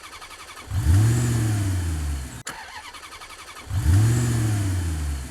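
An engine sound effect, twice in a row. Each time a low ticking run bursts into a loud engine rev whose pitch then sinks as it winds down. The two plays are almost identical, with a hard cut between them.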